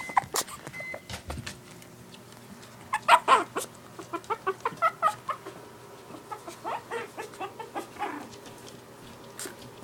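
Two-and-a-half-week-old Shih Tzu–poodle puppies squeaking and whimpering: a fast run of short, high little calls, several a second, starting about three seconds in and dying away after about five seconds. A few sharp knocks come before it.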